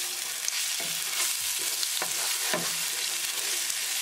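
Cumin seeds and ginger-garlic-green chili paste sizzling steadily in hot olive oil while a wooden spatula stirs them, with a few scrapes of the spatula across the pan. This is the tempering stage, frying the paste until the raw garlic flavour is gone.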